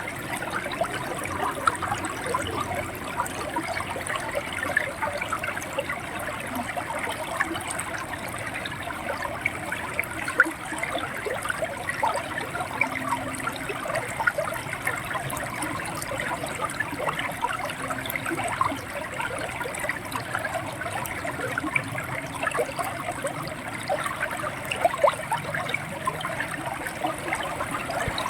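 Shallow river water running and gurgling steadily over stones, a continuous mass of small splashes and trickles.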